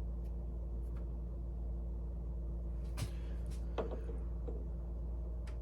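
Smithy lathe's motor running steadily with a low hum, with a few light clicks and taps about three and four seconds in.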